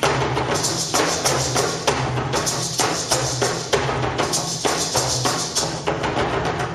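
Percussion music: struck drum and rattle beats about twice a second over a low steady drone.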